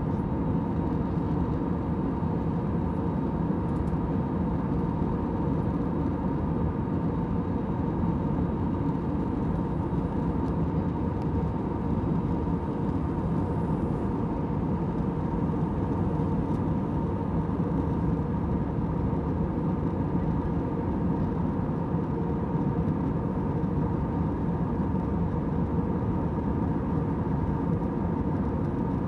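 Airliner cabin noise in flight: a steady, even rush of engine and air noise with a low hum and a thin steady whine, unchanging throughout.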